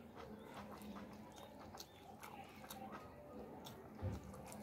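A man chewing and biting into a leg of mutton with rice: many small wet clicks and smacks of mouth and food, with a low thump about four seconds in.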